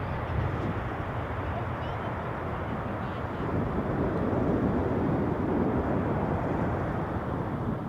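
Jet noise from a Boeing 747-400 freighter's four General Electric CF6-80C2 turbofans, a steady rushing that grows louder about three and a half seconds in.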